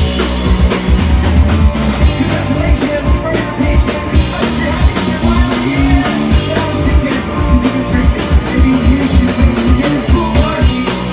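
Live rock band playing loud and fast, with drum kit, guitar and bass driving a steady beat and sung vocals, recorded from the audience.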